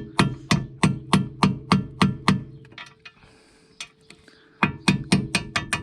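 Hammer striking metal in quick, even blows, about three a second, each with a ringing note. The blows stop for about two seconds partway through, then start again.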